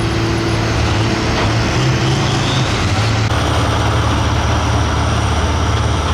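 Light Limited Super Stock pulling tractor's engine running loudly and steadily at the track.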